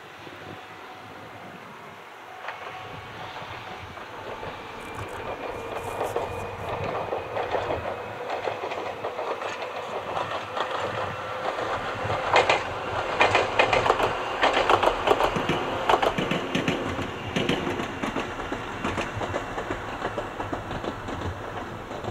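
Ohmi Railway 300 series electric train pulling away and passing, a faint rising whine as it gathers speed in the first several seconds. Its wheels clatter over rail joints in a clickety-clack rhythm that is loudest around the middle, then fades.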